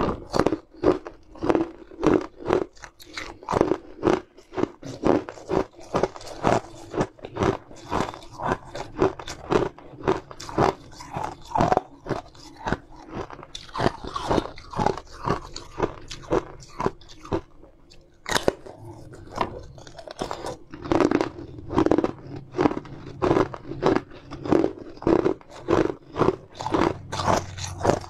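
Close-miked crunching and chewing of a brittle, glassy pink sweet, about two crunches a second. Near two-thirds of the way through the crunching lulls, a sharp bite snaps off a piece, and the steady chewing starts again.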